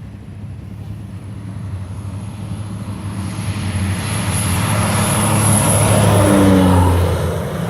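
Cessna 208 Caravan single-engine turboprop coming in to land, its engine and propeller noise building as it nears and passing close about two-thirds of the way through. A high turbine whine is heard throughout, and the engine tone drops in pitch as it goes by.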